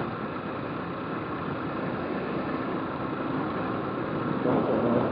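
Motorcycle engine running steadily. A voice starts near the end.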